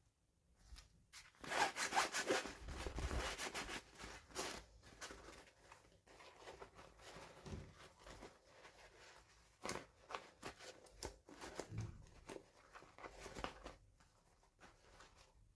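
Packaging handled and opened by hand: crinkly rustling and tearing, loudest for a few seconds near the start, then scattered small clicks and rubs.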